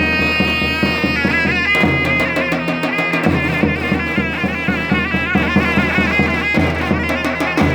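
Davul and zurna playing Turkish folk music: the zurna's shrill reed melody wavers and trills above a fast, steady pattern of davul drum beats.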